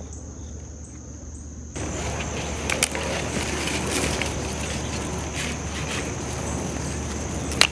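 Crickets trilling steadily in one high, even tone. About two seconds in, a louder steady hiss sets in abruptly, with a few sharp clicks over it.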